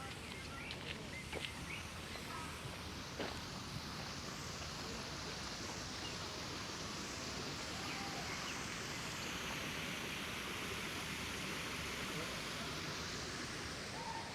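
Outdoor park ambience: a steady hiss that swells through the middle, with a few short bird chirps and some light clicks in the first few seconds.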